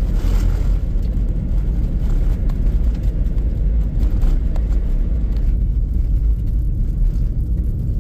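Car being driven, a steady low rumble of road and engine noise heard inside the cabin.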